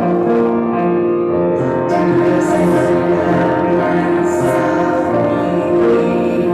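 Slow hymn music played on a keyboard instrument, long-held chords changing step by step.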